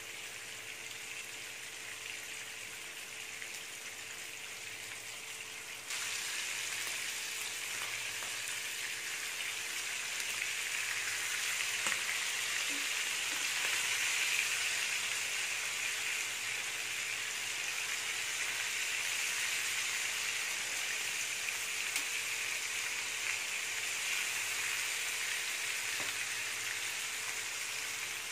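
Marinated fish steaks shallow-frying in hot oil in a pan: a steady sizzle that gets louder about six seconds in. Around the middle come a few light clicks of a steel spatula against the pan as the pieces are turned.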